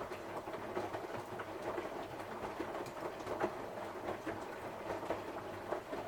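Samsung washing machine drum turning on a 60 °C cotton cycle, the laundry tumbling with many small irregular knocks. It stops abruptly near the end.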